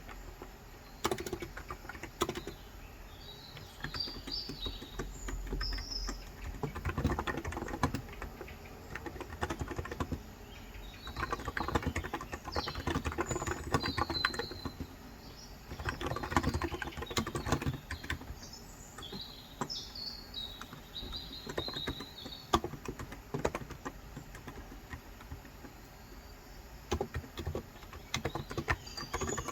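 Typing on a Cox Endeavour electrostatic capacitive tenkeyless keyboard with light 35 g switches, in bursts of quick keystrokes separated by short pauses. Birds chirp in the background several times.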